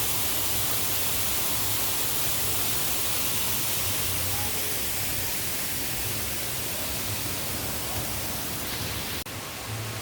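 Steady, loud rushing hiss, strongest in the highs. It breaks off about nine seconds in and goes on slightly quieter.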